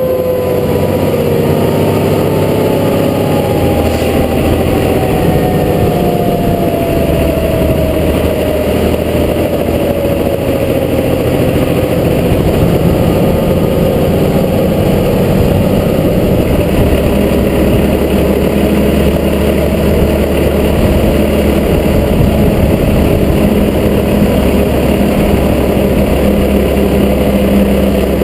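Fire truck under way, its engine running steadily with a few shifts in its note. Over the first dozen seconds a siren winds down, its pitch falling slowly until it fades into the engine noise.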